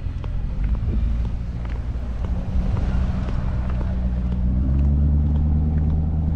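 Engine running steadily, its pitch rising about four and a half seconds in as it is given more throttle.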